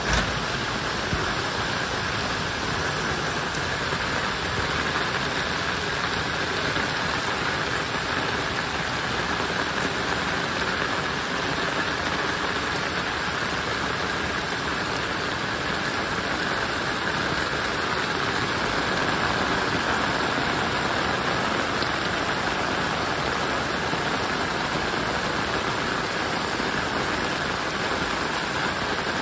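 Heavy rain pouring steadily, the drops splashing into standing floodwater over a lawn and paved yard.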